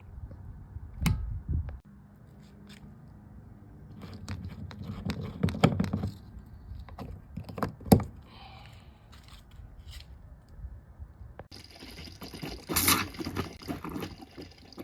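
Garden hose being unscrewed and pulled off a camper's water inlet: scraping and clicking of the fittings, with a sharp knock about eight seconds in and a hiss near the end.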